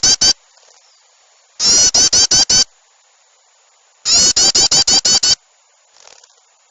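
Bird-lure recording of agitated small-bird calls in a yellow-vented bulbul (trucukan) and small-bird mix: loud bursts of rapid repeated notes, each about a second long, coming every couple of seconds.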